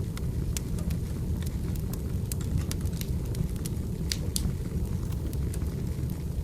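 Burning firewood crackling and popping in irregular sharp snaps over a steady low rumble of the fire.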